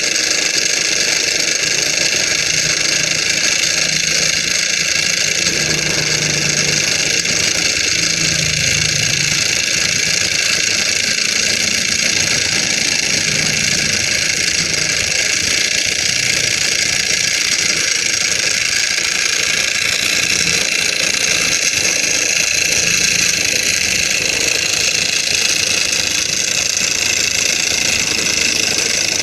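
Small fire-heated Stirling engine running steadily, a continuous high mechanical whirring.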